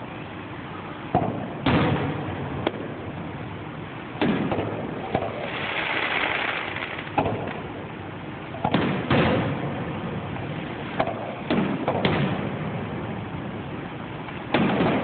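Aerial fireworks shells bursting: about a dozen booms at irregular spacing, each trailing off briefly, with a stretch of hissing, crackling noise about five to seven seconds in.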